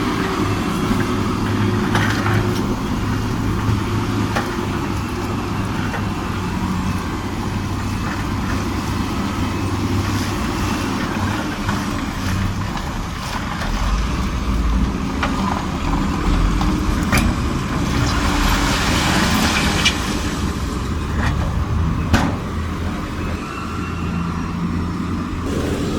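Heavy diesel earthmoving machinery running steadily, with scattered sharp knocks and clanks, the loudest about 22 seconds in. A hissing rush swells for about two seconds around 18 to 20 seconds in.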